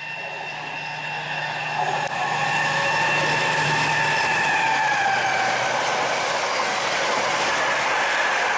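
Train approaching and passing at speed. It grows louder over the first two seconds, then holds loud with a rushing noise and a whine that falls slightly in pitch.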